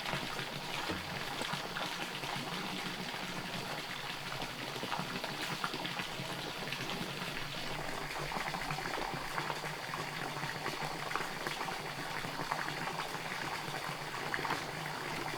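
Liquid bubbling at a steady boil in a cooking pot, a dense, even crackle of small pops.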